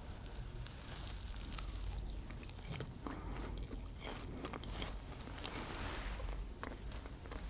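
A person chewing a mouthful of soft pancake: irregular wet clicks and crackles, over a low steady hum.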